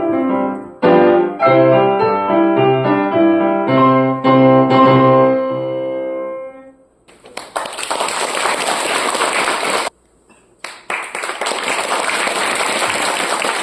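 Piano played four-hands, closing a piece with a run of chords that ends on a held chord fading out about six seconds in. Audience applause follows, dropping out briefly near ten seconds and then going on.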